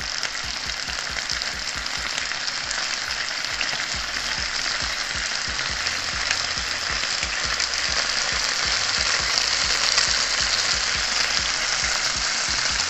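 Chicken wings sizzling in hot oil in an electric skillet: a steady crackling hiss that grows slowly louder.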